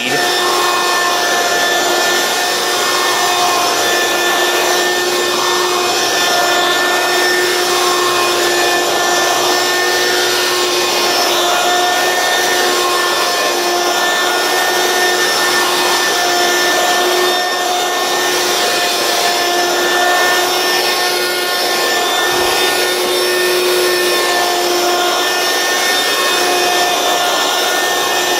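Hoover Quik Broom Encore S2551 stick vacuum running steadily, a constant motor whine over the rush of air and the rubbing of the cleaner head on the floor as it cleans along an edge.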